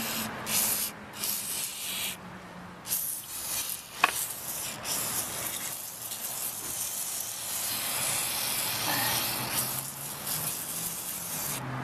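WD-40 aerosol can spraying onto a caked, filthy motorcycle chain and front sprocket to soak and loosen the grime: a few short bursts, then one long, near-unbroken spray that stops near the end. A sharp click sounds about four seconds in.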